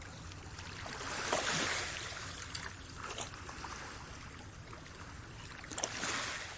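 Water splashing and trickling, swelling about a second and a half in and again near the end, with a few light knocks.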